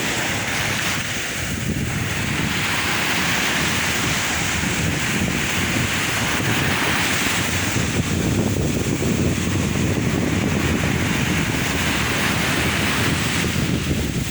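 Sea waves washing onto the shore in a steady surf noise, with two long surges of hiss as waves break and run up, and wind buffeting the microphone.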